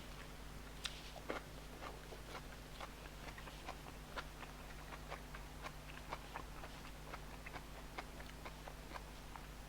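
Close-up eating sounds: soft, irregular mouth clicks and smacks of chewing, a few each second, over a faint steady electrical hum.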